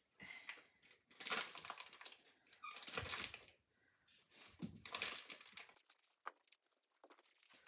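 Crinkling and rustling of plastic wrap or paper being handled, in irregular bursts with small taps, as dough is prepared by hand.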